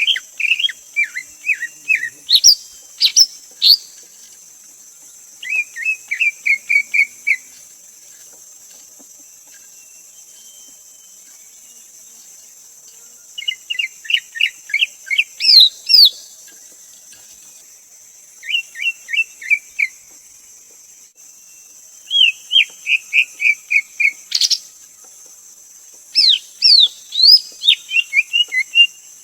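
Greater green leafbird singing: phrases of quick repeated chirping notes, each lasting one to two seconds, some with higher down-slurred whistles, coming every few seconds over a steady high hiss.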